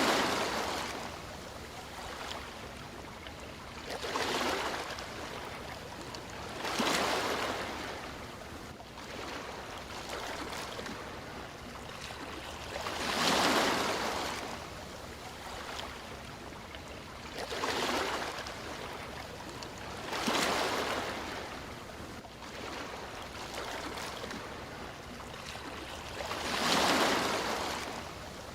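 Sea waves washing ashore: a steady hiss of water with a swell and wash every three to six seconds.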